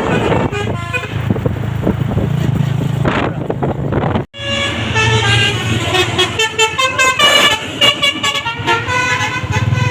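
Fuso truck's basuri multi-trumpet air horn playing a stepping, multi-note tune over the truck's running engine, with a sudden brief dropout about four seconds in.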